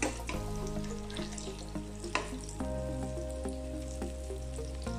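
Shark-fish kababs sizzling in oil in a frying pan while a metal spatula scrapes and knocks against the pan as the kababs are turned. There is a sharp scrape about two seconds in.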